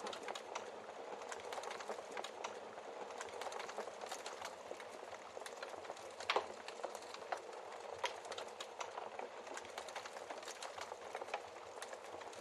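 Wood fire crackling in a fireplace: a constant run of small snaps over a soft hiss, with one louder log pop about halfway through.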